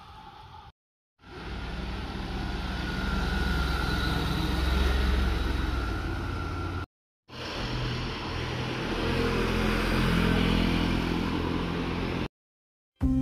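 Motorcycles passing on a road, heard in two separate takes about five seconds each, with a hard cut to dead silence between them. In each take the engine grows louder, and in the second it revs up in pitch before being cut off abruptly.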